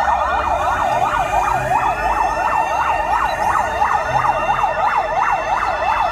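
Emergency vehicle sirens wailing in a fast, repeating up-and-down yelp, two of them overlapping out of step, over a low rumble. The sirens cut off suddenly at the very end.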